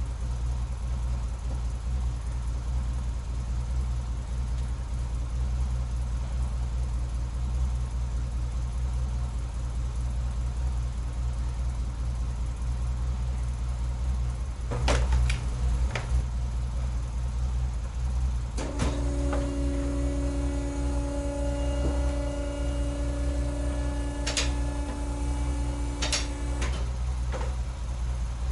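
Nissan S30 Fairlady Z (240Z) engine idling steadily. Past the middle there are a few sharp clicks. Then a steady whine of several pitches runs alongside for about eight seconds and stops.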